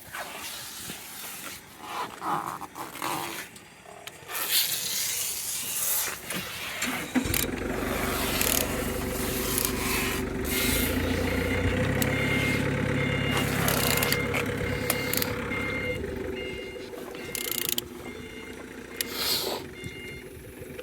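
Scattered metal knocks and clatter, then from about seven seconds a steady motor hum that runs for about nine seconds, joined about ten seconds in by a high beep repeating about twice a second, like a vehicle's reversing alarm.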